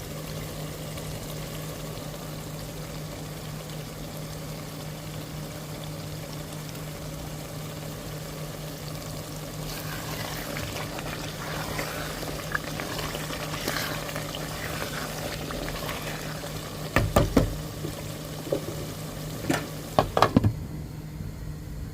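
Pepper sauce frying in palm oil in a pot, a steady sizzle and bubble that grows livelier about halfway through, over a steady low hum. A few sharp knocks come near the end.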